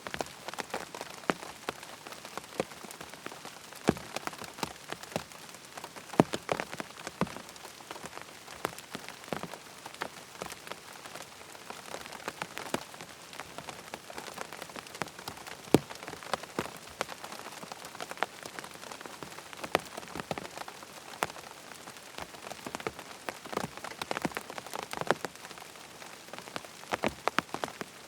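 Rain falling on a tent: a steady patter with many separate drops striking the fabric at irregular moments, some louder than others.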